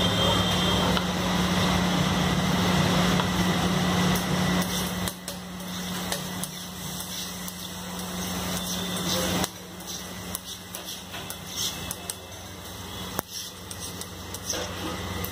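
Butter and a spiced egg mixture sizzling on a hot flat steel griddle, with scattered light ticks and clicks. A steady mechanical hum underneath is loud at first and drops off about five seconds in.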